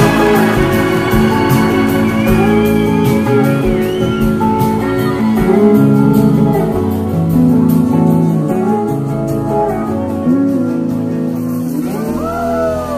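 Live blues-rock band playing the closing bars of a slow song, an electric guitar lead with gliding notes over bass and drums. The cymbals fade about eleven seconds in, and crowd whoops begin near the end.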